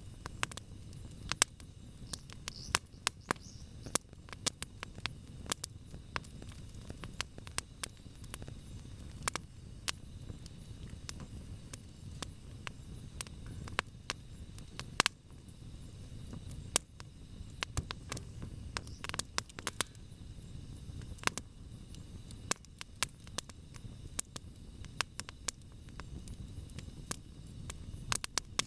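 Wood campfire crackling and popping: irregular sharp snaps, some much louder than others, over the low rumble of the burning fire.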